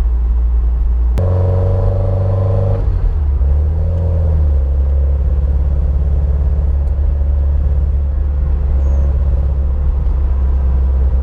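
Rebuilt 1986 Porsche 944 2.5-litre four-cylinder engine running just after its first start. About a second in the sound jumps suddenly to a higher, steadier note for a second or two, then settles back to a steady low idle. It is running rough and breaking up, which the owner later traces to a torn spark plug wire boot letting the spark jump.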